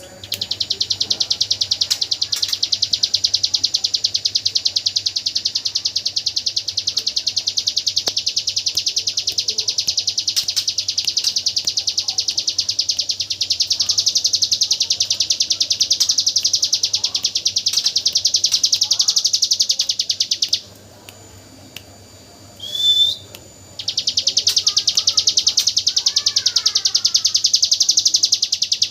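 Ciblek gunung (a prinia) singing its very fast, unbroken machine-gun trill, the 'AK47 shot' song. The trill holds for about twenty seconds, breaks off, a single short rising note follows, and then the trill starts again about three seconds later.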